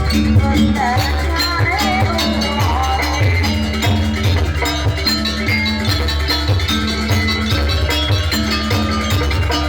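Live jaranan campursari music: drums keep a steady, driving beat under sustained pitched accompaniment, with a wavering melody line over the first few seconds.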